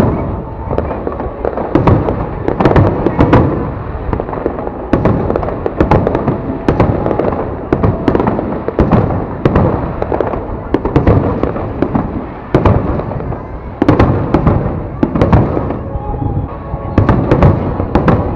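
Fireworks display going off: a continuous string of sharp bangs, several a second, one after another.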